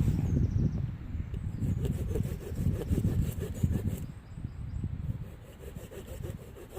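Hand saw cutting through a branch of wood in repeated back-and-forth strokes, loudest at the start and easing off after about four seconds.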